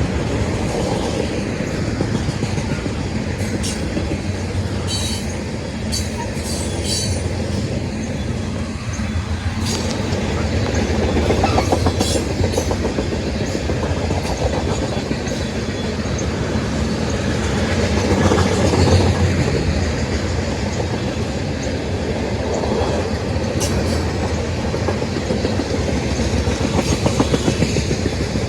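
Train rolling past, a steady rumble with wheels clacking over the rails and a few sharp clicks.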